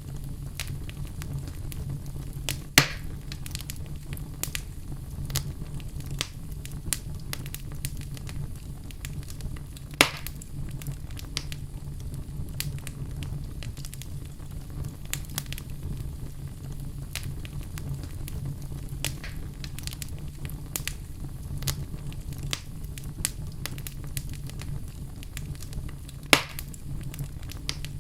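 Fire burning in a fireplace: a steady low rumble with constant small crackles and three sharp, loud pops, about three seconds in, about ten seconds in and near the end.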